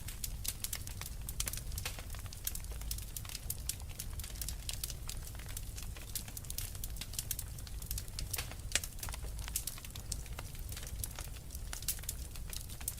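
Fireplace fire crackling: dense, irregular sharp pops and snaps over a low steady rumble.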